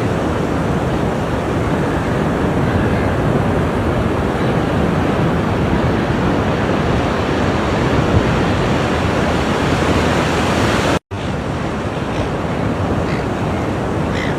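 Ocean surf washing on the shore in a steady rush of noise. It cuts out for a split second about eleven seconds in, then resumes.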